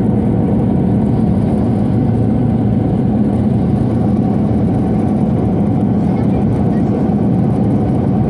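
Steady drone inside a Scania OmniCity city bus on the move: the ventilation blowers running continuously with a low hum, mixed with engine and road noise.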